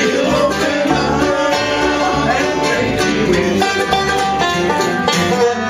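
Live bluegrass band playing, with banjo and guitar picking over a steady low bass line.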